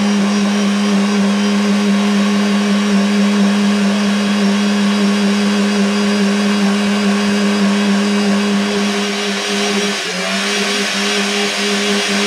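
Volvo car engine held at steady high revs during a burnout, wheels spinning in thick tyre smoke: one constant engine note over a hiss of spinning tyres. The revs drop briefly about ten seconds in, then come straight back up.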